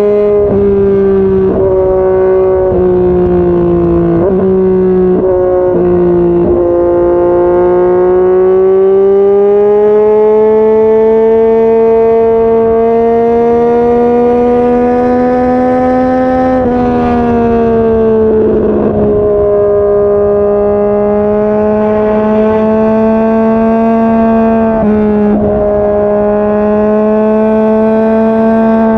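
Yamaha MT-09's 847 cc crossplane three-cylinder engine running under way at a steady cruising speed, its pitch slowly rising and falling. There are several brief dips in pitch in the first few seconds and a drop about two-thirds of the way through.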